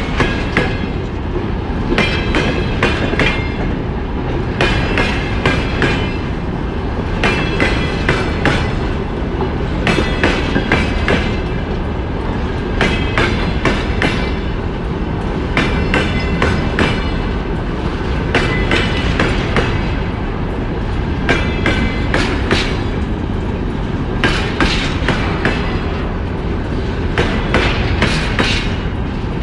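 Freight train wagons rolling past with a continuous heavy rumble. The wheels clatter over rail joints in repeating groups of clacks every two to three seconds.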